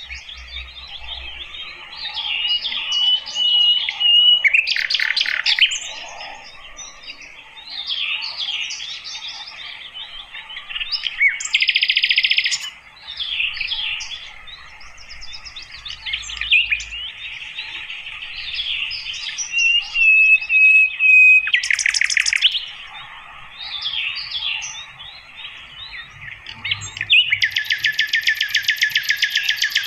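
Sikatan londo (a flycatcher) singing a busy, varied song of quick chirps and twitters, with a long thin whistled note twice. Harsh buzzing rattles break in around 5, 12 and 22 seconds, and a longer one starts about 27 seconds in and runs on.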